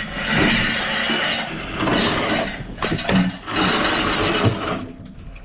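A heavy gas water heater being levered up and shifted into place, with rough scraping in several stretches and a few sharp knocks.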